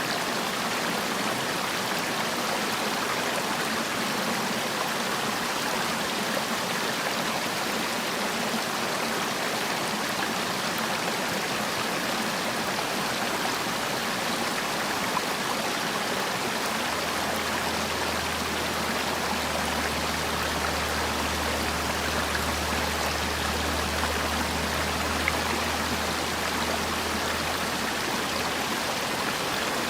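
Mountain valley stream, water rushing steadily over rocks. A faint low hum joins it a little past halfway and fades out near the end.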